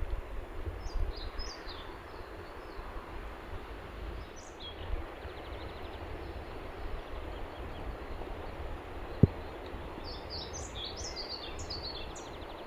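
Small birds chirping in short bursts over a steady outdoor hiss and low rumble, with one sharp tap a little after nine seconds in.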